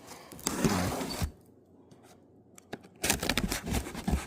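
Cardboard box being handled: a scrape lasting under a second about half a second in, then from about three seconds in a quick run of knocks and rustling.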